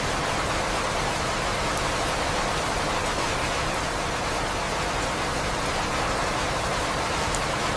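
Steady rain falling: an even, unbroken hiss with no thunder claps.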